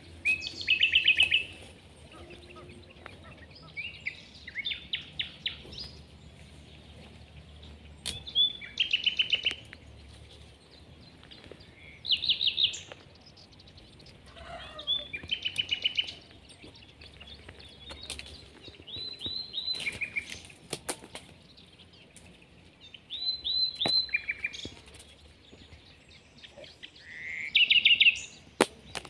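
A songbird singing short phrases of rapid repeated high notes, one phrase every few seconds, with a few faint clicks in between.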